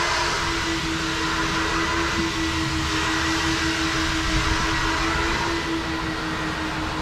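Automatic car wash machinery running steadily: an even hiss of spray or air over a constant mechanical hum.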